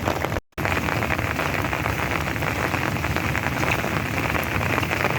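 Steady rain falling on a wet street, an even hiss dense with small drop impacts, broken by a brief silent dropout about half a second in.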